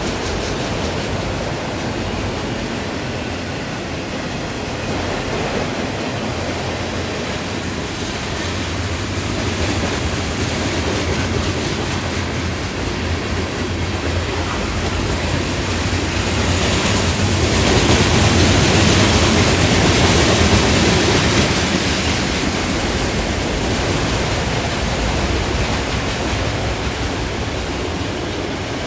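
Freight train cars rolling past at a grade crossing: a steady rumbling rush of wheels on rail with a low hum, growing louder about two-thirds of the way through and then easing.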